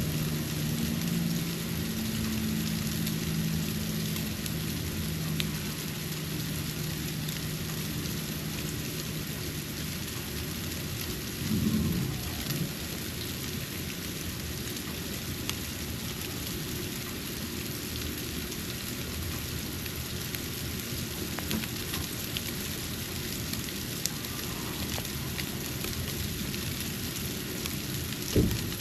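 Snow falling onto a porch: a steady hiss with scattered faint ticks. A low steady hum runs under it for the first ten seconds or so; there is a brief low swell about twelve seconds in and a short thump near the end.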